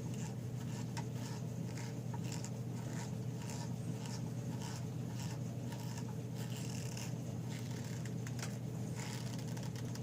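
Light scraping and clicking of hand tools and metal parts as the exhaust on a small Briggs & Stratton engine is fitted and its bolts are tightened down on a new gasket, over a steady low hum.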